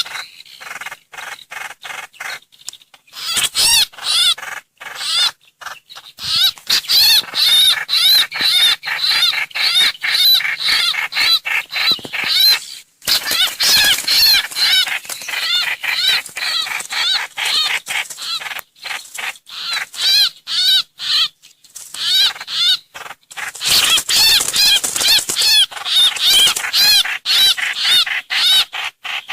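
Song of the trao trảo (hoành hoạch) bird played as a trapping lure recording. Fast, loud, wavering chirps come one after another in long runs, broken by short pauses.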